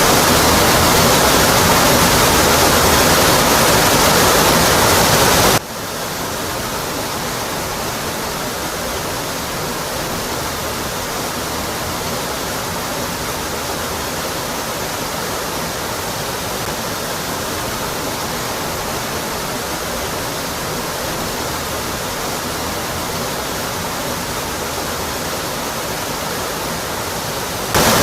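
Rocky Brook Falls waterfall: a steady rush of falling water. About five seconds in it drops suddenly to a quieter, thinner rush with less low rumble, then jumps back to full strength near the end.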